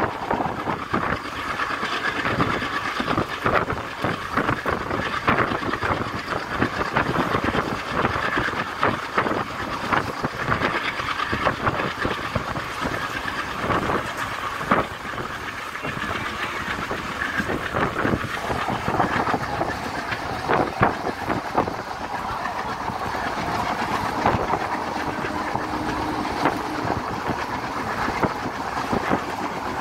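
A moving train running along the track, with dense, irregular clattering and clicking of the wheels over the rails and a steady rumbling rattle of the carriage.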